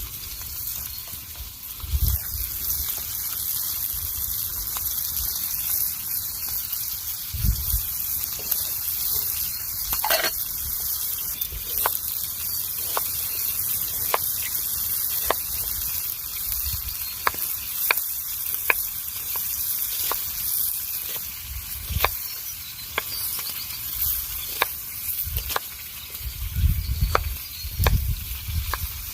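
Wood campfire hissing steadily, with sharp crackles and pops that come thicker in the second half, and a few low thumps.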